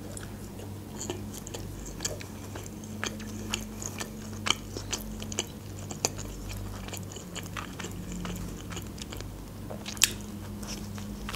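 Close-up eating sounds of a turkey-and-cheese croissant being bitten and chewed, with soft crunches and sharp mouth clicks now and then, over a steady low hum.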